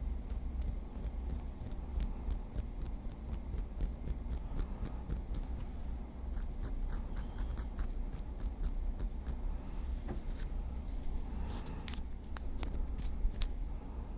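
Light tapping with a small wooden stick: an irregular run of short, crisp taps, a few a second, with a handful of sharper taps near the end, over a low steady hum.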